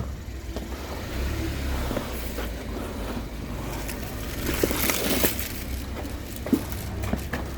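A motor vehicle's engine running with a steady low rumble, with scattered knocks and a short clatter about five seconds in.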